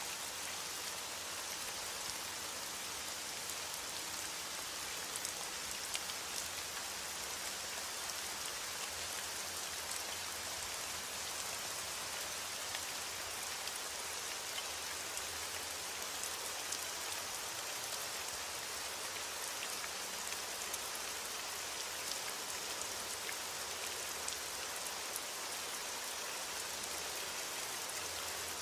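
Heavy rain falling steadily against a window: a dense, even hiss with scattered small sharp ticks.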